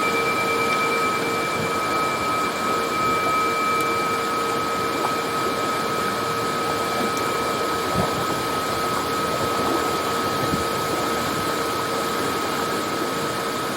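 Waterfall's steady rushing noise, with a few faint steady tones running through it.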